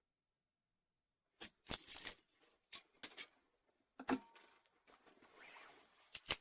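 A few short knocks and clicks with rustling between them, as things are handled in a small room, and a sharp double knock near the end.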